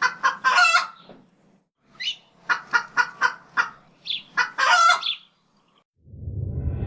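Chicken clucking: two runs of short clucks, each ending in a longer drawn-out squawk. Music fades in near the end.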